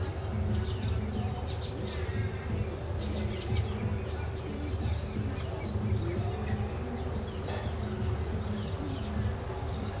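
Small birds chirping in short, high calls, several a second, over a steady low rumble.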